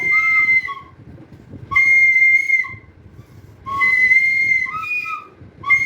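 A toy whistle blown in four blasts of about a second each, each one a steady high note.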